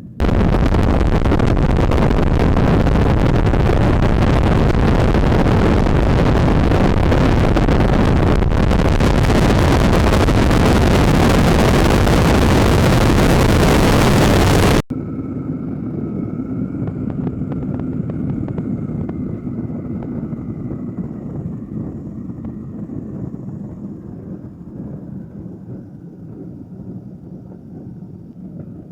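Loud, steady rush of wind and engine noise in a small light aircraft's cockpit, which cuts off abruptly about fifteen seconds in. A quieter engine drone follows, with a faint whine that slowly falls in pitch and fades toward the end.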